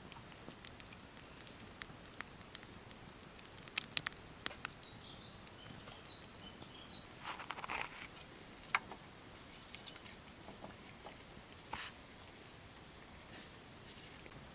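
Scattered faint clicks and crackles, then a steady high-pitched insect drone that cuts in suddenly about halfway through and carries on without a break.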